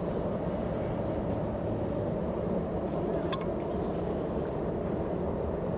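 A forge running with a steady, low rushing noise, with one faint click a little past halfway.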